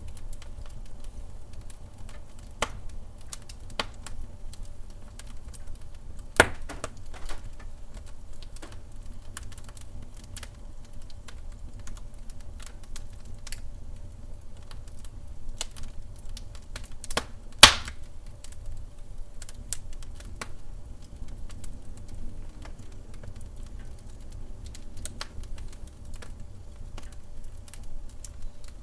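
Wood fire crackling in a fireplace: scattered sharp ticks and snaps over a low rumble, with two louder pops, one about six seconds in and one near eighteen seconds.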